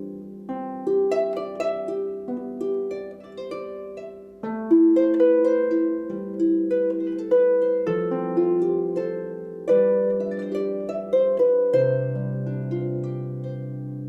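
Solo harp playing a slow introduction: single plucked melody notes ring and fade over low sustained chord tones. A deep bass note comes in near the end.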